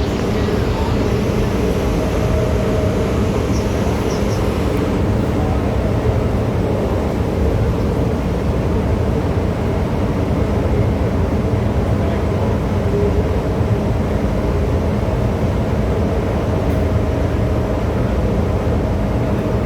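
MTR M-train metro car running at speed, heard from inside the car: a loud, steady running rumble with a faint steady hum over it.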